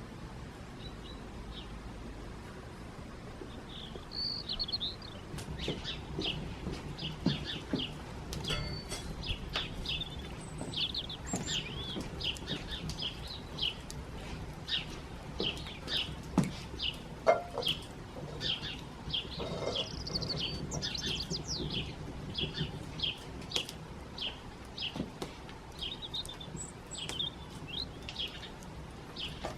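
Small birds chirping: short, high calls repeated several times a second, beginning about four seconds in, with a few knocks now and then.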